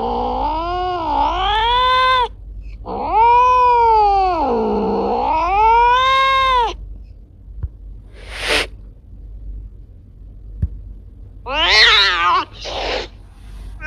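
Cat yowling: two long, drawn-out caterwauls whose pitch sinks and rises again, then, after a pause, a few short noisy bursts and a brief wavering cry.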